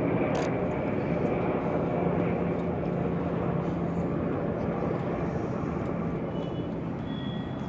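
Jet aircraft engine noise: a steady, broad rush with a low hum underneath, slowly fading.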